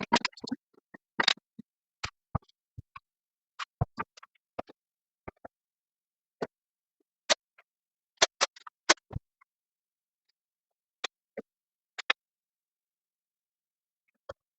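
Scattered sharp clicks and light knocks at uneven intervals, from clamps and plywood parts being handled, with dead silence between them. The clicks thin out after about nine seconds.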